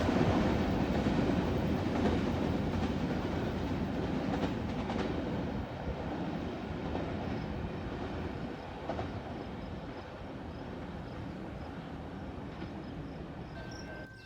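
A train rolling along the rails, its wheels and cars clattering, fading steadily as it moves away.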